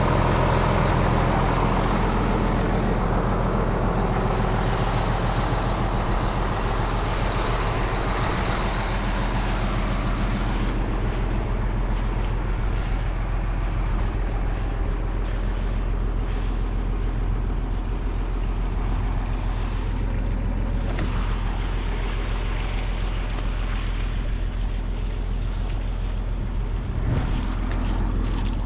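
A vehicle engine running steadily, a constant low hum with a noisy rush over it.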